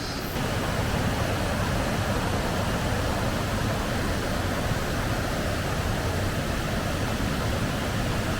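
Steady rush of heavy flowing water from a stream and waterfall in spate after a typhoon, growing louder about half a second in.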